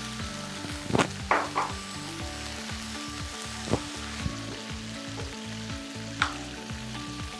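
Food sizzling in hot oil in a pan, a steady crackling hiss, with a few short clinks of a utensil against the pan about a second in, near four seconds and near six seconds.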